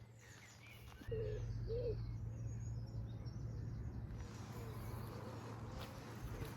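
Wild birds calling outdoors: high chirps with lower, rounded cooing calls. A steady low hum comes in about a second in.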